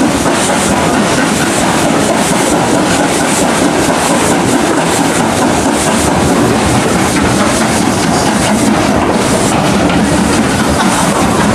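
Train running along the line behind BR Standard Class 5 steam locomotive No. 73096, heard from aboard. A loud, steady rumble with a rhythmic clatter of the wheels on the rails.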